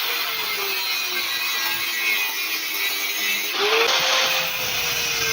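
Power tool cutting metal: a motor whine sags slowly under load, jumps back up about three and a half seconds in, then sags again, over a steady grinding hiss.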